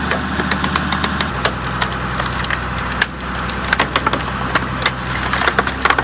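Hydraulic firewood splitter at work: a steady engine and hydraulic drone under a rapid run of sharp cracks and snaps as logs split apart, the cracking heaviest near the end.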